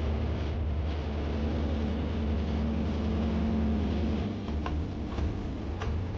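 Fishing boat's engine running with a steady low drone. A few light clicks come in over it near the end.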